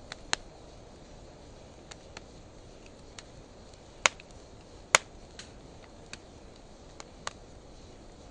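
Wood fire crackling: scattered sharp pops from burning dry hardwood and driftwood over a faint steady hiss. The loudest pops come about four and five seconds in.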